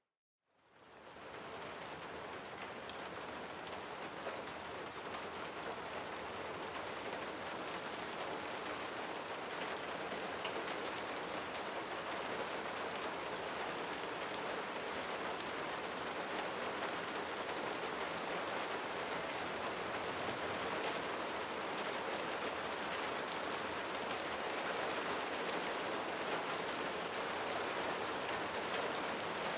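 Steady rain falling, an even hiss thick with the patter of individual drops, fading back in from a brief silence in the first second or so.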